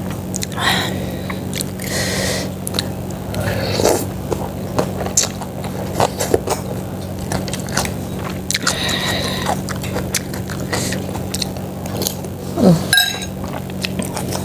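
Close-up eating sounds of a person eating chicken-feet soto: chewing and biting with many small wet clicks, over a steady low hum.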